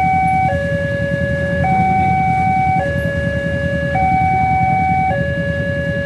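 Indonesian railway level-crossing warning alarm sounding: an electronic two-tone chime alternating between a higher and a lower note about every 1.2 seconds, signalling that a train is approaching or passing. A steady low rumble runs underneath.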